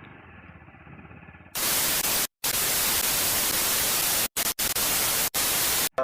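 Faint background noise, then about one and a half seconds in a loud burst of TV-style white-noise static cuts in. It drops out abruptly for split seconds several times before it stops.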